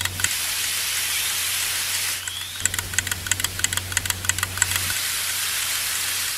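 Model fuel dispenser running: a steady hiss of liquid flowing, broken from about two and a half seconds in to about five seconds in by a low hum with rapid clicking, like a small pump motor and meter.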